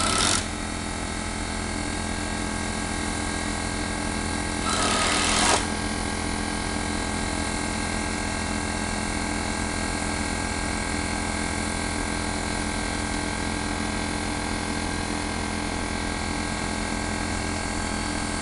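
Steady mechanical drone with two short bursts of hiss, one at the start and one about five seconds in.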